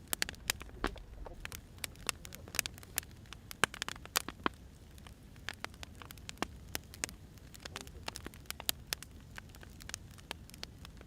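Firewood burning: irregular crackles and pops of varying loudness over a low, steady rumble of the fire.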